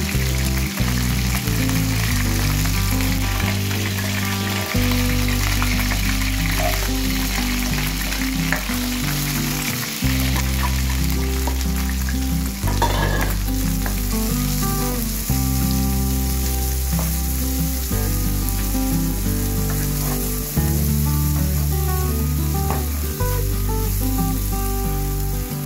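Oil sizzling in a wok as chicken pieces and then sliced garlic and leeks fry, stirred with a spatula, under background music with held bass notes.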